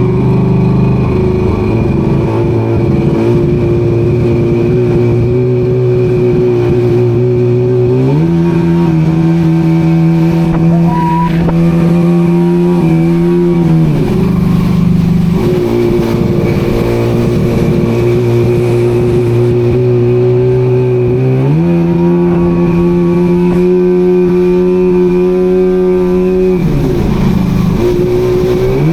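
Vehicle engine running steadily under load. Its pitch shifts up and down every several seconds as the revs change.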